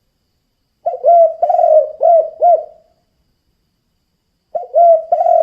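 Spotted dove (tekukur) cooing its 'kuk 2' song: a phrase of about five low coos about a second in, then a pause, and the next phrase begins near the end.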